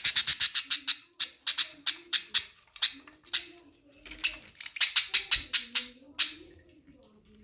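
Budgies chirping and chattering: rapid trains of sharp, high-pitched chirps, several a second, that stop about six seconds in.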